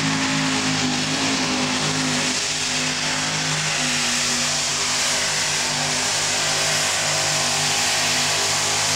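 Modified pulling tractor running flat out during a pull, its engine holding a steady high pitch over a loud, rough exhaust noise.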